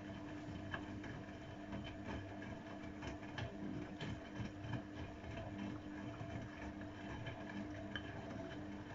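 AEG Öko-Lavamat 693 washing machine running a 95 °C boil wash, with a steady hum and irregular light clicks and knocks from inside the machine.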